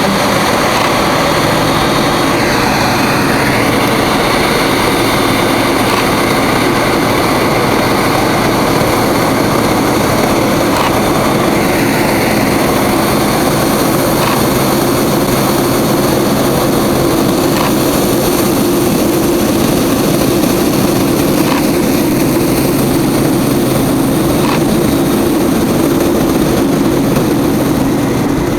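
Boeing 787-8 Dreamliner's jet engines running, a loud, steady noise.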